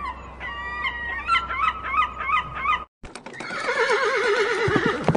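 Geese honking in a rapid run of calls, then an abrupt cut about three seconds in to a horse whinnying, one long call whose pitch wavers up and down.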